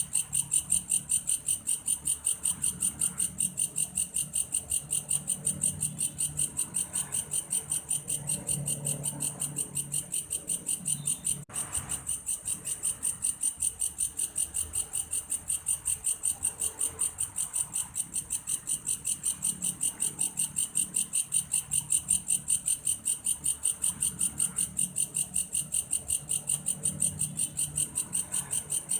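Belalang kayu insect calling in a high-pitched, evenly pulsed, cricket-like chirping, about three to four pulses a second, with a momentary break near the middle.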